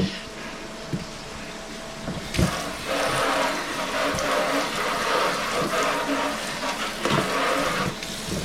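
Water running from a kitchen tap for about five and a half seconds, starting a couple of seconds in and shutting off near the end, with a few short knocks before and after.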